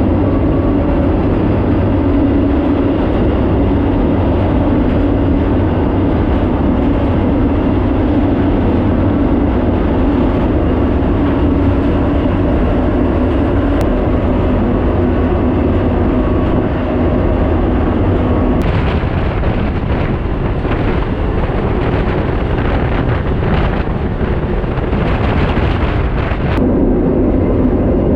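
Steady rumble of a moving intermodal freight train heard from aboard it, with a low hum running underneath. A harsher hiss joins about two-thirds of the way in for several seconds, then drops away.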